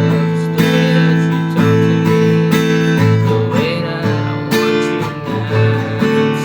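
Music: an acoustic guitar strumming chords, with a fresh strum about once a second.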